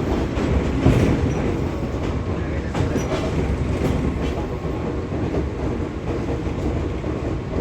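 Fujikyu 6000 series electric multiple unit (a converted 205 series with DC traction motors under field-added excitation control) running along the line, a steady rumble of wheels and motors. Wheels knock over rail joints a few times, the loudest about a second in.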